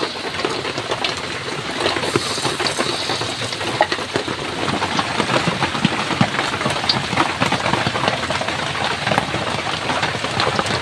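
Heavy rain falling steadily, a dense hiss full of scattered drips and drop impacts.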